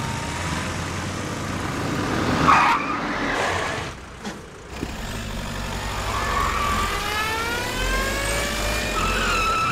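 Car engines running and accelerating, with a short loud burst about two and a half seconds in. In the second half an engine revs up, its pitch rising steadily as the car speeds close.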